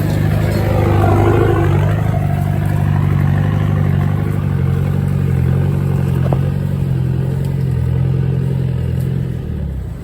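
A 4x4's engine running steadily as it drives along a rough off-road track, with some light clatter, easing off just before the end.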